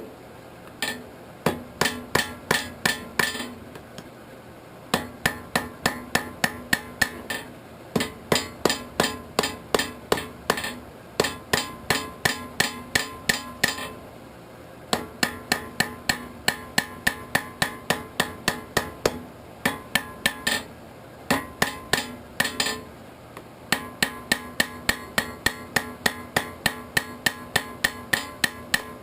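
Blacksmith's hand hammer striking hot steel on an anvil while forging an arrowhead socket, in runs of quick blows about three to four a second with short pauses between runs. The anvil rings on between blows.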